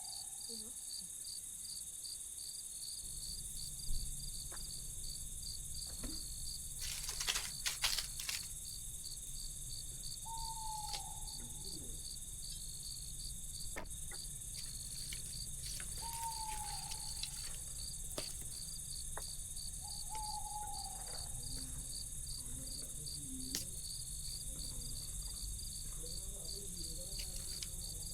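Crickets chirping steadily in an even pulsing rhythm over a high insect hiss. A short falling call sounds three times, and a few sharp knocks come near the start.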